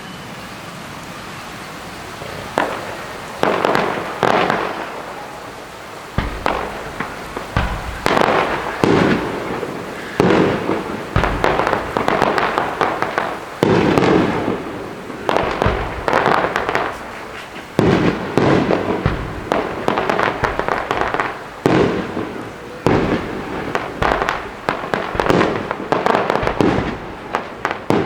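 Fireworks going off in quick succession: a steady hiss for the first couple of seconds, then repeated bangs and crackling bursts, one after another.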